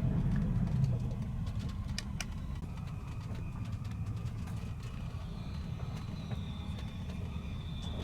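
TGV Lyria high-speed train running with a steady low rumble, a few sharp clicks, and a faint high whine in the second half.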